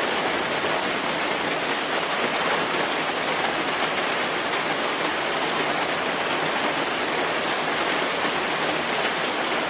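Steady rainfall, an even hiss of rain on a surface with occasional individual drop ticks.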